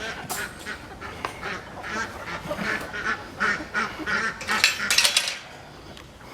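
Meat chickens making repeated short squawks and calls while being handled and moved, with a brief rush of noise about four and a half seconds in.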